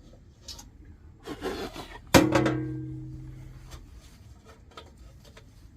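A short scraping of parts being handled, then a sharp metallic clang about two seconds in that rings on and fades over a second or so, as a metal part or tool strikes metal during the heater reassembly.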